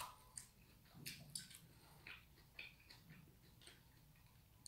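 Faint chewing mouth sounds: a few soft clicks and smacks, otherwise near silence.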